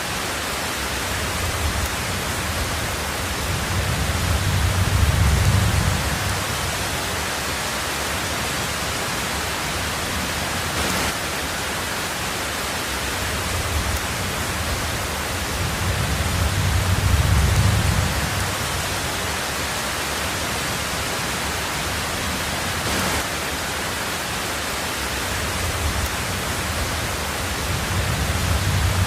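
Heavy rain on a tin roof, a steady dense hiss, with low rumbles of thunder swelling and fading three times, about twelve seconds apart.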